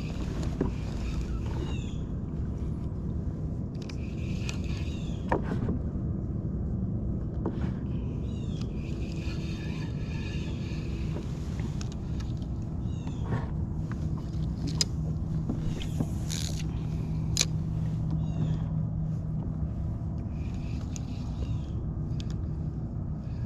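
Steady low rumble of wind and water around a fishing kayak, with clusters of quick high chirps coming and going and a few sharp clicks.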